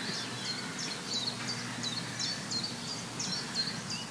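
A bird calling over and over, a short high chirp two or three times a second, over faint outdoor background noise.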